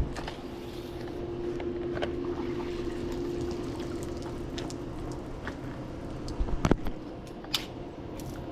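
Swimming-pool water moving and trickling, with a steady hum through the first half and a few sharp knocks in the second half.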